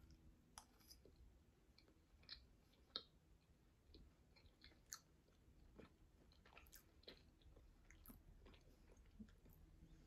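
Near silence with faint chewing: soft, irregular mouth clicks and smacks of someone eating a bite of soft, moist red velvet pound cake with her mouth closed.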